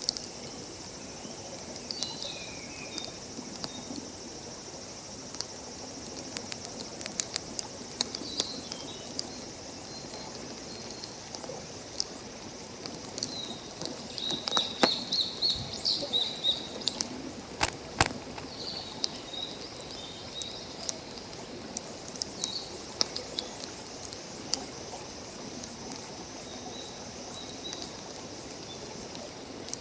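Wood campfire crackling with scattered sharp pops, a cluster of them about halfway through and one loud crack. Small birds chirp throughout over a steady outdoor hiss.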